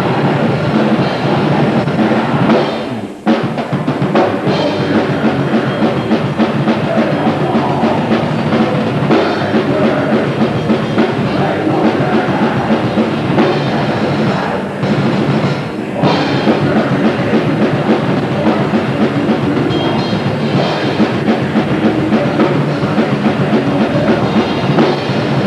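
Grindcore band playing live: loud, dense, distorted music driven by a drum kit, with a brief drop about three seconds in.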